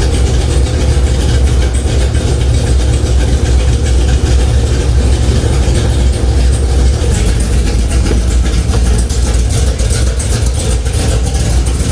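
Camaro ZL1's supercharged V8, freshly fitted with an aftermarket cam, running at a steady idle, loud and even.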